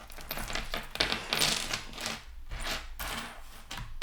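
Acrylic jewelry pieces and a metal chain clicking and clinking irregularly as they are handled.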